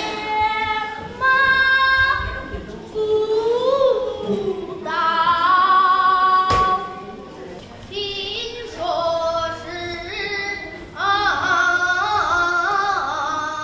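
A high voice singing a Sichuan opera melody unaccompanied, in several phrases of long held notes with wavering, sliding pitch. There is a single sharp click about six and a half seconds in.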